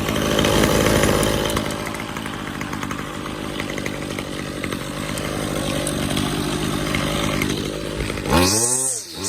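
Toro 51936 gas string trimmer's small two-stroke engine running steadily after a cold start. About eight seconds in, the steady note gives way to a pitch that sweeps up and down a few times.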